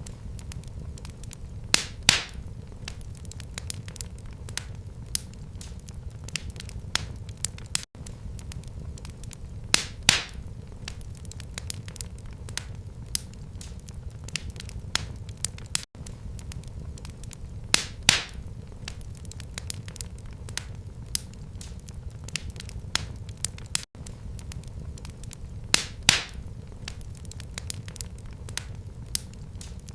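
Wood fire in a fireplace crackling, with steady small snaps and a sharper pop about every eight seconds over a low rumble. The same stretch of crackling repeats every eight seconds, as a looped recording does.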